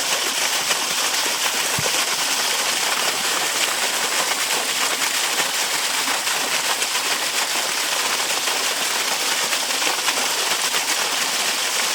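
Small natural waterfall: water falling and spattering steadily on rock and water.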